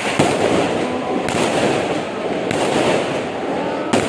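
Fireworks and firecrackers crackling without a break, a fresh burst of crackle breaking out about every second and a quarter.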